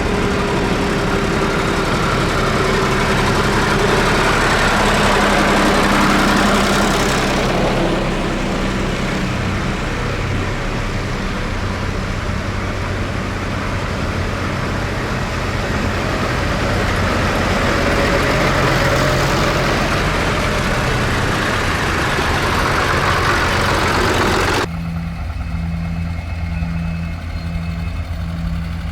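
Tractor engines running, the noise swelling and fading twice as machines pass. About 25 s in the sound changes abruptly to a single tractor engine idling with a regular throb.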